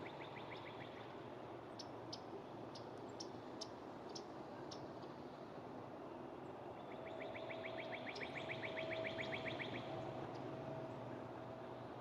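A small bird's trill: a quick, even run of high repeated notes, about eight a second, heard briefly at the start and again for about three seconds past the middle. Scattered sharp ticks come in between, over faint outdoor background noise.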